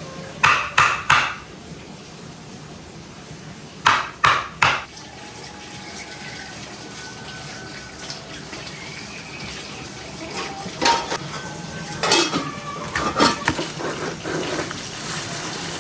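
Pots and dishes being handled: clattering knocks in a quick group of three about a second in and again around four seconds, then a longer run of clinks and knocks near the end.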